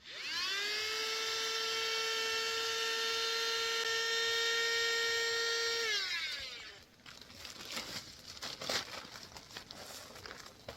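Small electric air pump spinning up with a short rising whine, running steadily for about six seconds, then winding down. Scattered rustling and knocks follow.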